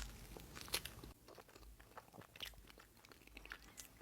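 Quiet, close-up crunching of a lemon meringue dome pastry, with scattered small crackles of its pie crust as it is broken into and eaten.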